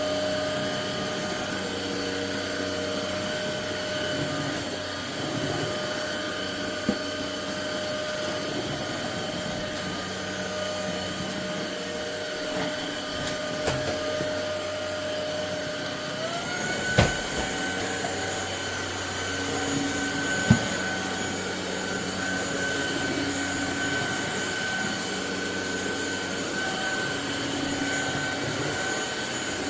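Cordless stick vacuum cleaner motor running with a steady whine. A little past halfway the whine glides up in pitch to a higher steady speed, marked by a sharp knock, with a few other short knocks around it.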